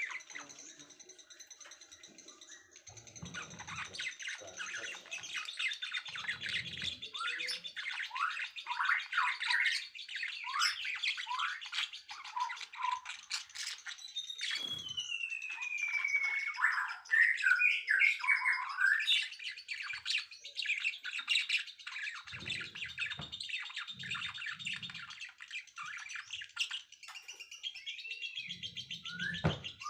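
Songbirds chirping and singing together: a dense run of quick downward-sweeping chirps over thin high whistled notes, with one long falling whistle about halfway. A few soft low thumps come and go underneath.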